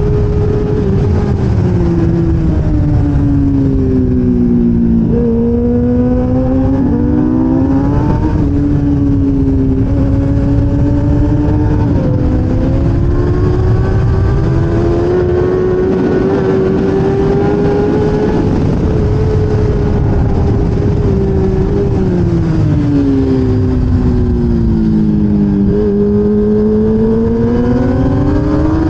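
1000cc racing motorcycle engine heard onboard over heavy wind rush. The revs fall under braking with sudden jumps up in pitch as it shifts down, then climb and hold high down a straight. Near the end the revs fall again and rise.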